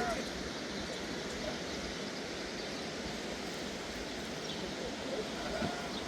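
Steady outdoor background noise with a faint sheep bleat near the end.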